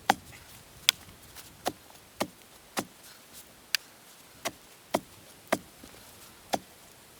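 Repeated sharp knocks of a hand tool striking while a cedar post is being set in the ground, about one and a half a second at uneven intervals.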